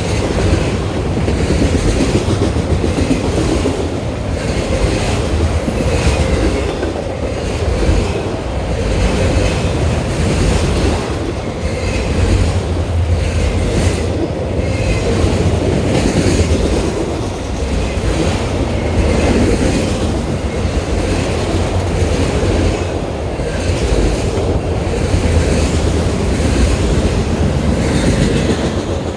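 Freight train of car-carrier (autorack) cars rolling past with a loud, steady rumble. The wheels clack over the rail joints, with faint wheel squeal now and then.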